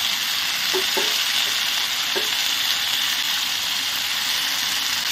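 Oil sizzling steadily in a metal pan as freshly added tomato pieces fry with shallots, mint and chillies.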